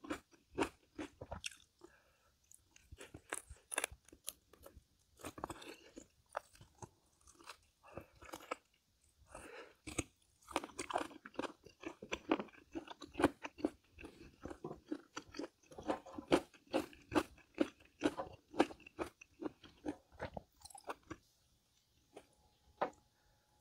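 A person chewing crunchy food close to the microphone: rapid crisp crunches in bursts with short pauses, dying away a few seconds before the end.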